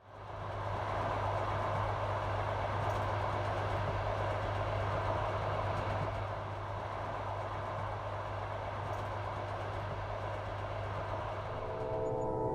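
A train running on the rails with a steady rumble and rush, fading in over the first second. Near the end a train horn begins sounding a chord of several tones.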